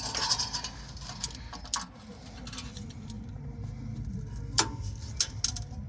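Scattered sharp metallic clicks and clinks of an oil filter wrench being adjusted and fitted around an oil filter, with the loudest click about four and a half seconds in. A low steady hum sits under them.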